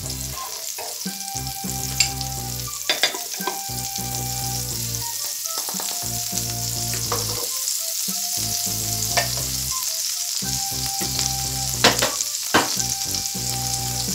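Butter sizzling as it melts on a hot electric contact grill plate: a steady high hiss, with a few sharp pops or clicks.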